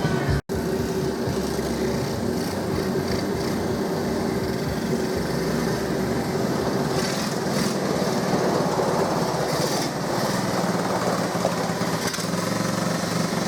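A 1984 Honda ATC 125M three-wheeler's small single-cylinder four-stroke engine running as the trike is ridden, after a short break in the sound about half a second in. The owner finds it won't take full throttle and needs carburettor adjusting.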